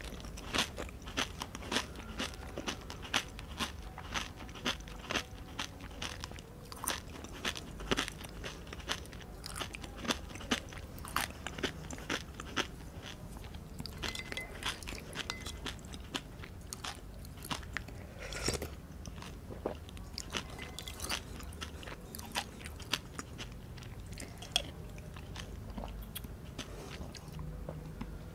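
Close-miked chewing of pani puri: the crisp fried puri shells crunch again and again between the teeth, with wet mouth sounds. The crunches thin out toward the end.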